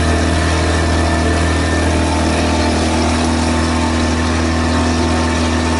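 Tour boat's engine running at a steady, unchanging drone.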